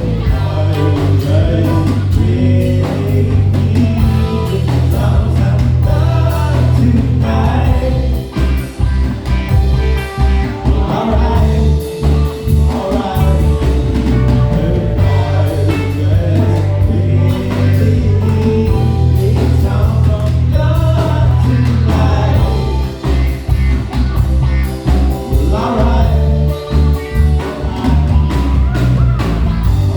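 Live band playing: electric bass and drums holding a steady groove under keys, with a gliding lead melody line on top.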